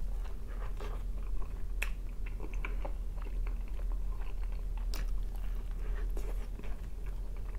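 A man biting into a soft-bun burger and chewing it, with many small wet mouth clicks throughout. A low steady hum runs underneath.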